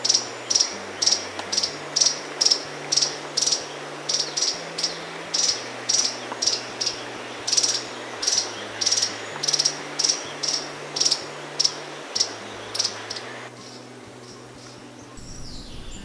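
A forest bird repeating a short, sharp, high-pitched call about three times a second, then falling silent about 13 seconds in.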